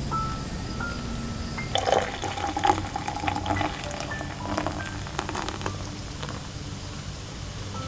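Liquid being poured into a container, with light clinks and knocks, busiest from about two seconds in and thinning out after about four seconds.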